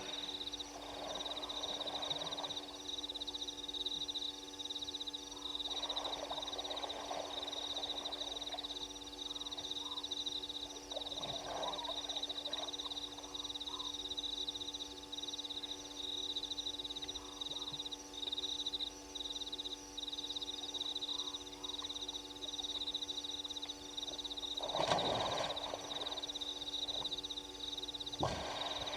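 Night animal chorus at a waterhole: a steady, high, pulsing trill runs throughout, with rough, rasping calls breaking in several times.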